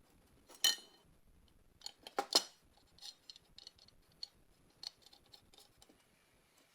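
Metal parts of a car jack being handled and fitted together: small clinks and clicks. There is a sharp clink just under a second in, a louder cluster of clinks around two seconds in, then lighter scattered ticks.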